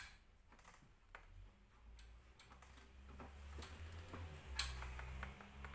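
Small plastic toy-house parts clicking and tapping as they are handled and fitted together, a few scattered light clicks with one sharper snap near the end.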